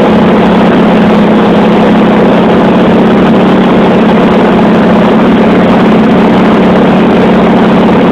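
Vintage warbird's radial piston engine and propeller droning steadily in flight, loud and unchanging.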